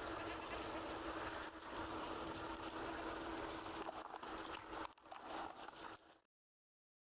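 Outdoor background noise with a steady faint hum and light rustling and pattering, cutting off abruptly to silence about six seconds in.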